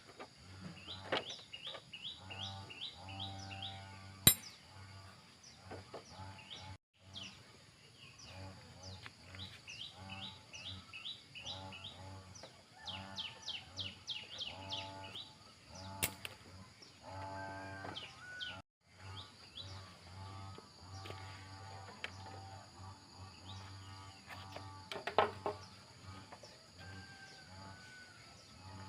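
Birds chirping in quick repeated runs of short falling notes, over a steady high hiss, with a few sharp clicks.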